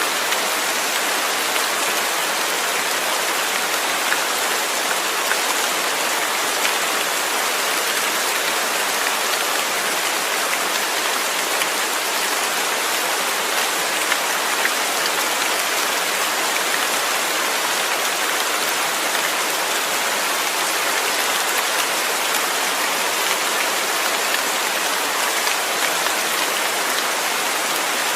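Steady rain falling, a dense even hiss of drops on a surface with faint scattered individual drop ticks.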